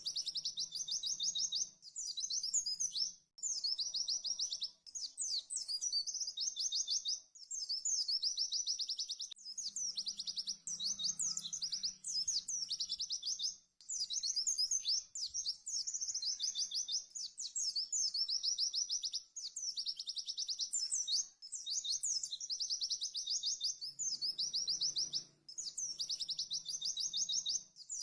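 White-eye (pleci) singing its fast 'tembakan' song: very rapid, high trilled phrases of one to three seconds each, repeated with brief breaks.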